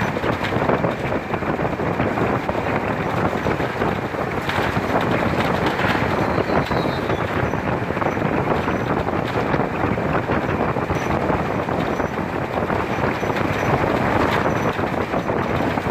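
Steady rushing wind noise buffeting the microphone, with a constant low rumble beneath it.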